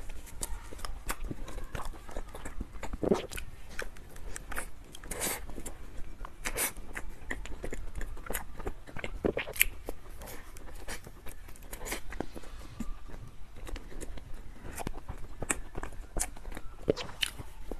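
Close-miked chewing of a soft, cocoa-dusted cream-filled chocolate dessert: wet mouth smacks and sticky clicks that come irregularly throughout.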